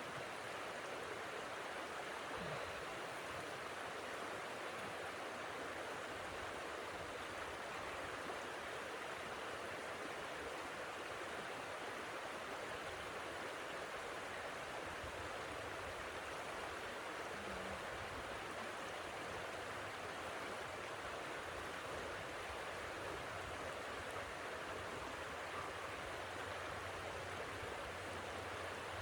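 Steady blizzard wind, an even rushing hiss with no gusts or breaks.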